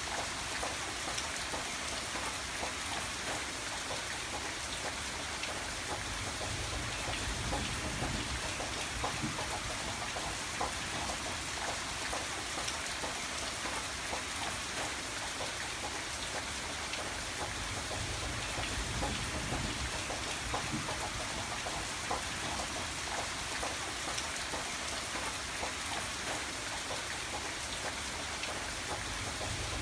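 Steady rain falling, a dense even hiss with many small drop ticks and a faint low rumble underneath.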